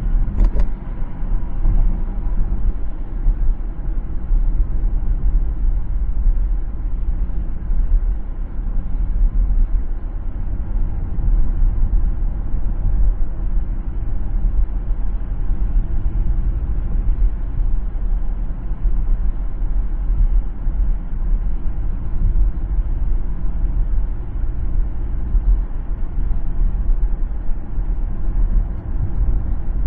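A car driving along a city road: steady low rumble of road and engine noise, with a brief click about half a second in.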